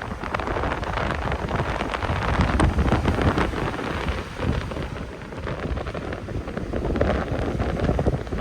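Strong, gusty sea wind buffeting the microphone over heavy surf from big waves, the noise swelling loudest about two to three seconds in and easing off before rising again near the end.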